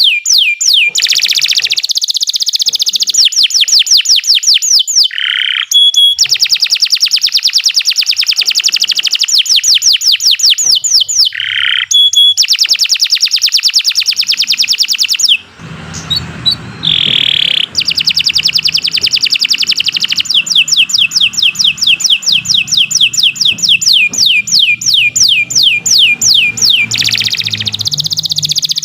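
Domestic canary singing long, high-pitched rolls of rapid repeated sweeping notes, about ten a second. The song breaks off briefly a few times, with a pause of about two seconds about halfway through. A low hum runs under the song from about halfway on.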